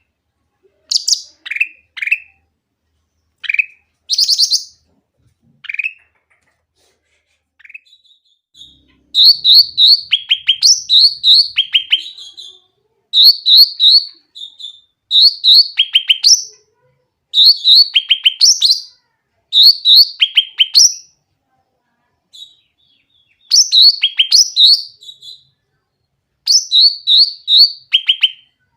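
A cucak ranting songbird singing loudly and clearly. At first it gives a few scattered short downslurred whistles. About nine seconds in it breaks into repeated phrases, one every couple of seconds, each a cluster of high chips dropping into a quick falling run of notes.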